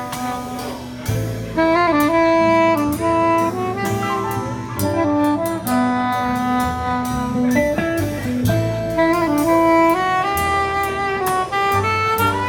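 Soprano saxophone playing a melody of held and moving notes in a live jazz performance, with a band accompanying underneath.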